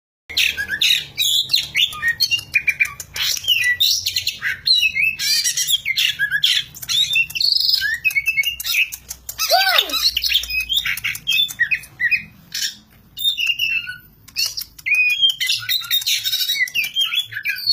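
A songbird singing a fast, varied stream of high chirps, trills and whistles, with one lower, falling note about ten seconds in and a brief pause a little after.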